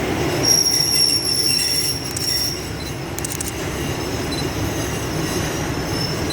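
Passenger train moving slowly through the station, its steel wheels or brakes squealing in a thin, high, steady tone for about two seconds near the start, over a steady low rumble of the cars.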